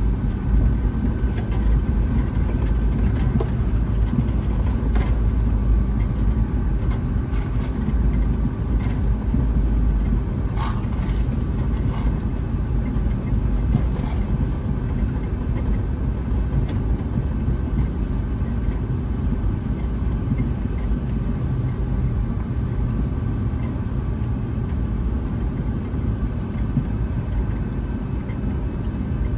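Steady cabin noise inside a Boeing 757-200 on the ground before takeoff: the low rumble of the idling engines and cabin air, with a few steady hums. A few faint clicks come about ten to fourteen seconds in.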